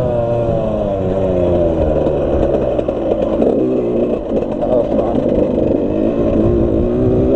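Suzuki RM85 two-stroke dirt bike engine running while being ridden. Its pitch falls as the revs drop over the first couple of seconds, runs rough and uneven at lower revs, then climbs a little again near the end.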